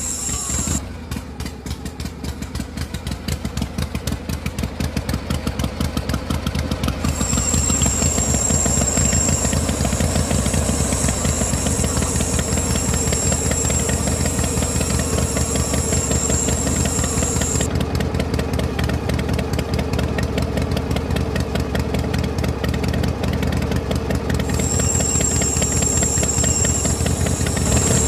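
A small motor running steadily with a fast, even rattle, growing louder over the first few seconds.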